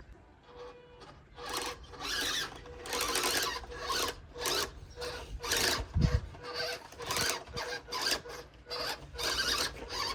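RC truck's tyres scrabbling and spinning on loose dirt in repeated bursts of throttle, with a thin whine from its electric motor coming and going. One heavy low thump about six seconds in.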